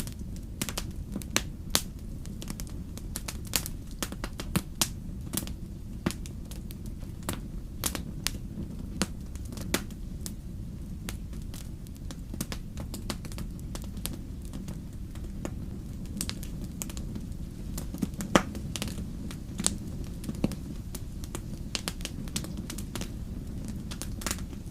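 Wood fire crackling: irregular sharp snaps and pops of burning firewood over a steady low rumble, with one louder snap about 18 seconds in.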